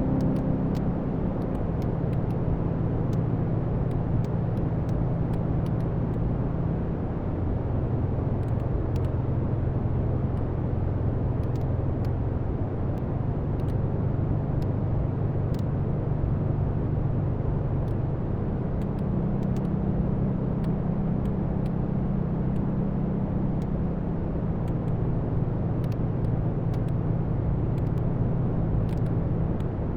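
Wood fire burning in a fireplace: a steady low rumble with scattered small crackles and pops of burning logs.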